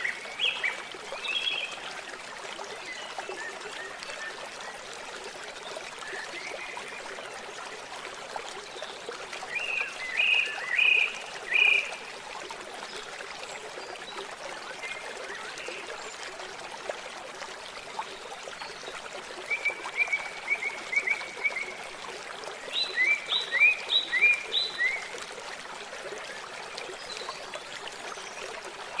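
Steady trickle of running water, with a bird singing short phrases of quick, repeated notes every several seconds; the longest run of phrases comes past the middle.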